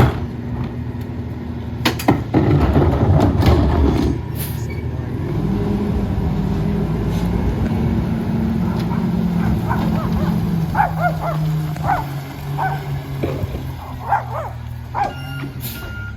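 Diesel engine of a Mack LR rear-loader garbage truck running, with a loud clatter of trash going into the hopper about two to four seconds in. The engine then runs at raised speed for several seconds, as it does while the McNeilus packer cycles, and settles back. Short barks sound near the end.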